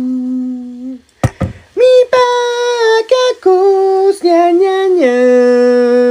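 A high voice singing long held notes without words, stepping between a low and a high pitch an octave apart, with a short break and a click about a second in.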